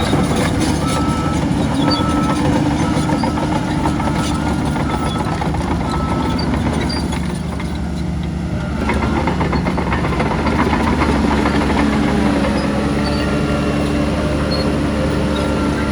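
Heavy diesel earthmoving machinery, a bulldozer and dump trucks, running steadily under load, with scattered clanks. A reversing alarm beeps at an even pace for the first six seconds or so and again near the end, and the engine noise dips briefly about halfway through.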